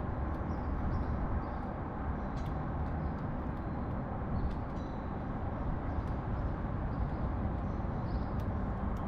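Steady low rumble of city traffic, with faint, short chirps of sparrows here and there over it.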